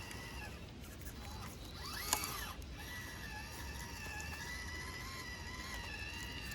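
1/18-scale RC rock crawler's small electric motor and gearbox whining as it drives, the pitch shifting a little with the throttle, with a sharp click about two seconds in.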